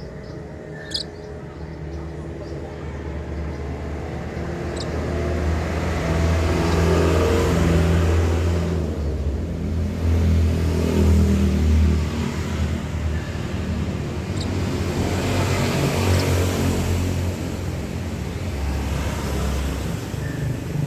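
A motor vehicle's engine running, growing louder over the first several seconds and then staying loud and steady. A few short, high chirps sound over it, about a second in and again later.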